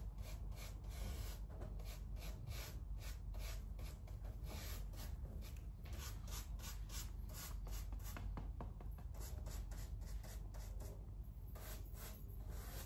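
Repeated scratching strokes of a hand tool on styrofoam, about two or three strokes a second, as a brick pattern is scored into the sheet.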